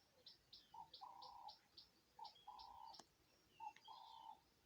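Faint cooing of a wild dove: three phrases, each a short note followed by a longer held one. A small bird chirps in quick high notes above it, and there is one sharp click about three seconds in.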